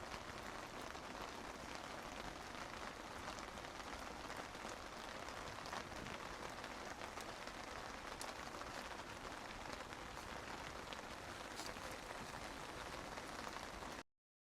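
Steady rain falling, a soft even hiss with scattered drops ticking. It cuts off abruptly near the end.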